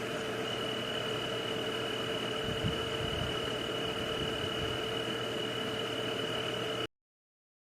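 Steady night-ambience hiss with a constant high-pitched drone like an insect chorus and a fainter lower hum. It cuts off abruptly near the end into total silence.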